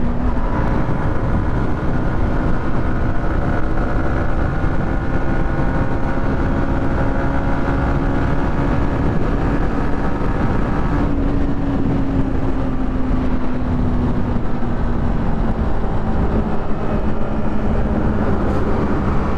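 Yamaha MT-15 V2 motorcycle's single-cylinder engine running on its stock exhaust while being ridden, with wind rushing over the microphone. The engine note climbs slowly, changes abruptly about eleven seconds in, then sinks slowly.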